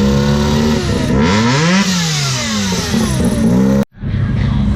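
A car engine is revved: its pitch climbs to a peak about two seconds in, falls back, then rises again briefly. Near the end the sound cuts out abruptly, and a steady engine rumble follows.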